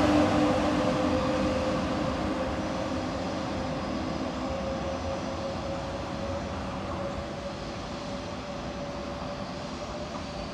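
A train passing and moving away. Its rumble, with a steady whine over it, fades gradually.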